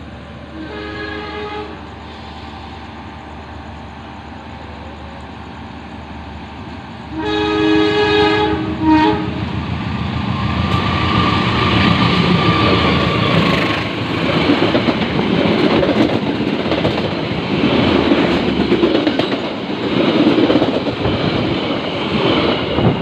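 Diesel locomotive horn of an approaching train: a short blast about a second in, then a longer, louder blast about seven seconds in. The passenger train then passes through the station without stopping, with the loud, steady noise of its wheels and coaches going by close at hand.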